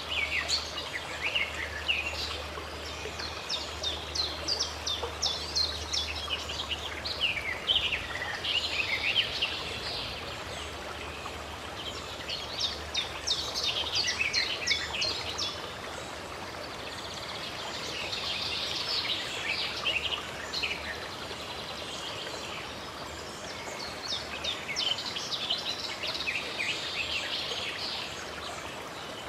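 Songbirds chirping in several flurries of quick, rapid notes over the steady rush of running water.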